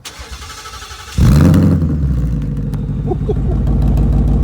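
A car engine being started: a brief crank, then it fires about a second in with a loud rev flare and settles into a steady, fast idle.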